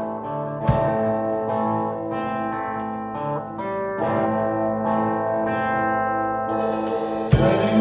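A live band plays an instrumental break in a country-rock song. A guitar takes the lead with held, effects-laden notes over the band, and a sharp hit lands about a second in and again near the end.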